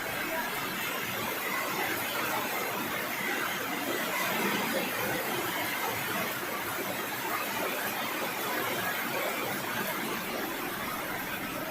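Steady rushing of a waterfall, an even unbroken hiss of falling water.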